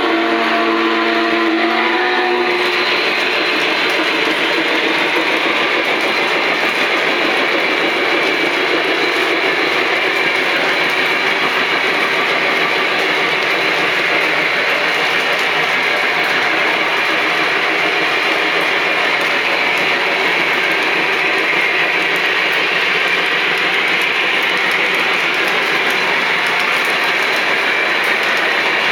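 An O scale model steam locomotive running on three-rail track. Its onboard whistle sounds for the first two seconds or so, then a steady rushing noise from the running train continues.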